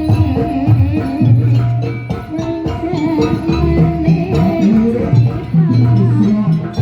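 Live jaranan troupe music: drums and other percussion under a held, pitched melody line, playing continuously.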